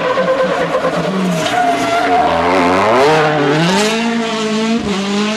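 Rally car engine at high revs, dropping in pitch as the car slows, then climbing sharply as it accelerates away, with a brief dip in revs near the end.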